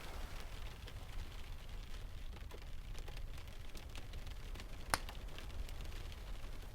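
Wood fire crackling, with scattered small pops and one sharp, louder pop about five seconds in, over a low steady rumble.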